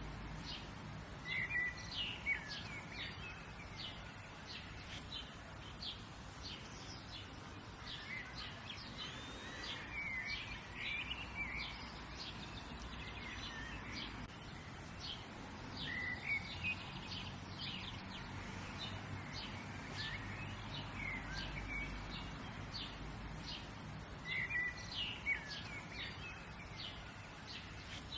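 Several birds chirping and singing over a steady low background hiss. A short song phrase recurs every several seconds among many quick, high chirps.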